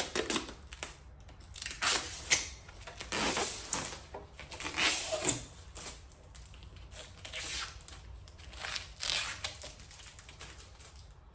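Tape and protective covering being pulled off a car part by hand: irregular crinkling and tearing rustles in repeated bursts, with sharp crackles.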